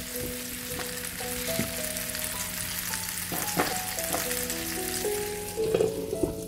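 Apple quarters sizzling in caramel in a frying pan, a steady hiss. A few light knocks come midway, and there is a louder clatter near the end.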